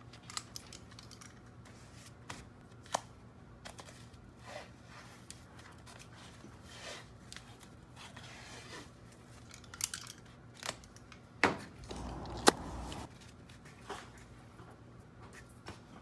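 Scattered light clicks, taps and rustles of things being handled, over a faint steady hum. About eleven and a half seconds in comes a louder rustling stretch of about a second and a half with a sharp click in it.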